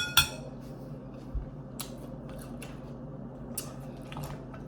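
Two sharp ringing clinks at the very start, then scattered faint clicks and taps of mussel shells and tableware being handled, over a low steady hum.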